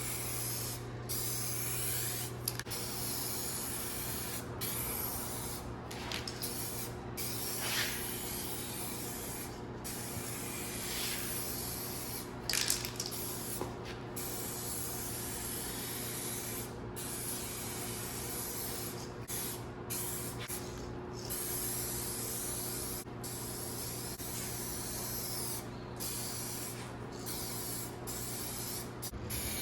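Air spray gun spraying automotive paint on a car: a steady hiss of atomising paint, cut by short gaps every second or few as the trigger is released between passes, over a steady low hum.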